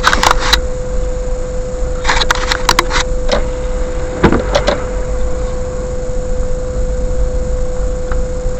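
Steady low rumble of a car cabin with a constant mid-pitched hum, broken by a few clicks and knocks about two to three seconds in and again about four and a half seconds in.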